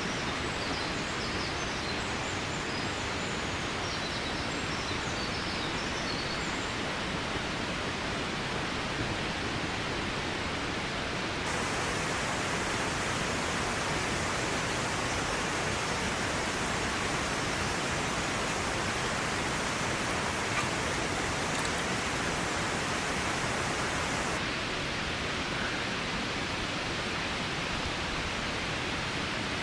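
Steady rushing of water, with a few faint bird chirps in the first several seconds. The rush turns brighter and a little louder from about a third of the way in until near the end.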